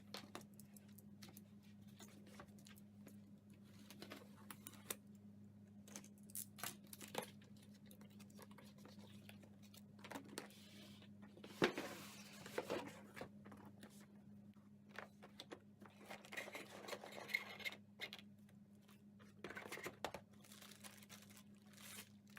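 Scattered clicks, scrapes and rustling from hands and tools working on a laptop during a teardown, with a sharp click about halfway through the loudest, over a steady low hum.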